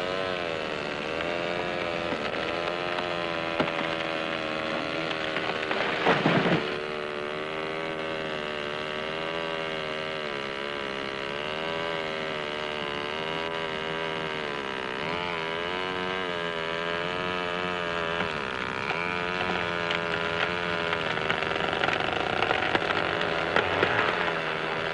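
A power saw (chainsaw) running steadily, its pitch rising and falling as it cuts through a fallen tree trunk, with a short loud burst about six seconds in.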